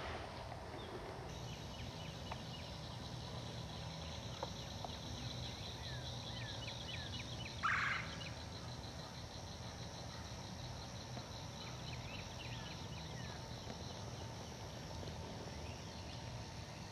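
Birds calling repeatedly with short falling chirps and a fast trill, over a steady low rush of background noise. A brief harsh burst about eight seconds in is the loudest sound.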